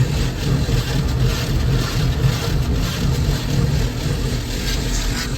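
Automatic car wash working over a car, heard from inside the cabin: a steady low rumble under a hissing wash of water and machinery.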